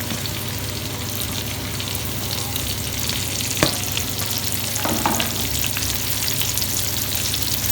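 Sliced onions and fennel seeds frying in hot oil in a pan, sizzling and crackling steadily as they are stirred. There is a sharp knock about three and a half seconds in and a short clatter about five seconds in.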